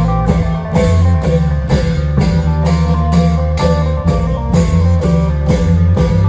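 Isan klong yao long-drum band music: drum strokes on a steady beat about twice a second, with a deep bass line and a plucked electric string melody over it.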